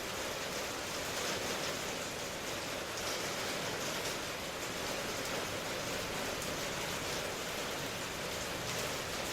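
Steady rain falling, a dense even hiss with faint patters of single drops landing on a surface.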